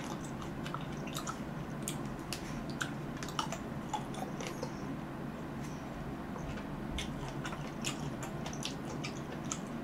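Close-miked chewing of fresh cherries: many short, wet clicks and squelches scattered throughout, over a steady low background hum.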